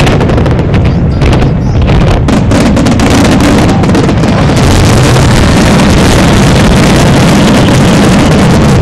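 Aerial fireworks shells bursting in rapid succession. About four to five seconds in, the separate bangs merge into one continuous wall of noise, so loud the recording is saturated.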